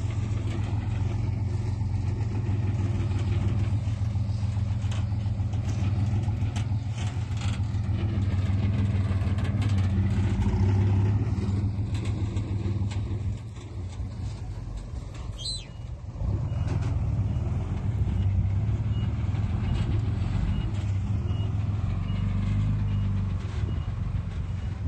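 Heavy diesel engine of earthmoving machinery running steadily, easing lower for a couple of seconds past the middle before picking up again. Scattered clanks and clicks, and a brief high squeal near the middle.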